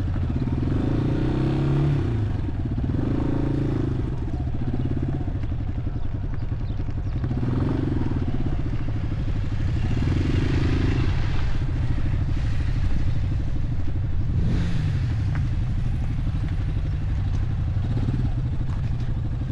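Motorcycle engine running steadily while riding, its note swelling a few times and gliding briefly past the middle.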